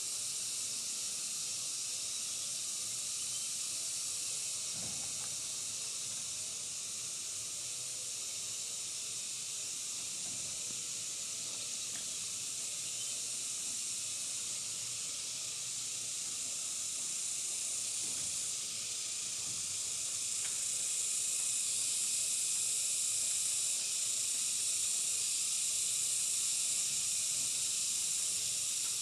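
A steady high-pitched hiss that grows a little louder about two-thirds of the way through, with a few faint knocks beneath it.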